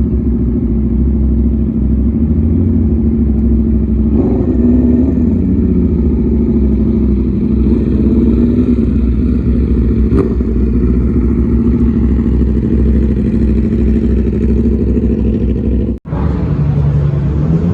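Car engine running steadily at low revs, with a short rise in pitch about four seconds in; the sound drops out for an instant near the end.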